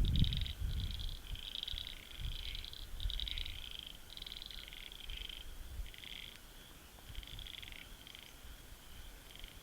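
A chorus of many frogs calling over one another: short, high, rapidly pulsed trills repeated one after another. A low rumble under them is loudest at the start and dies away over the first two seconds.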